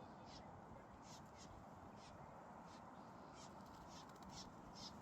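Faint, short, sharp bird calls repeated about twice a second at uneven intervals, over a steady low outdoor hiss.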